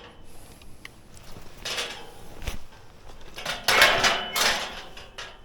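Electric mountain bike rattling and clattering over a rough, muddy stretch of trail, in uneven bursts with the loudest clatter about four seconds in.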